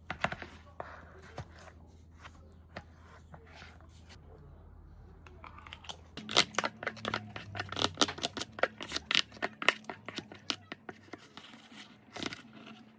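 Crinkling and tearing handling noises: a few sharp clicks at the start, then a dense run of crackling and ripping from about six seconds in, over a steady low hum.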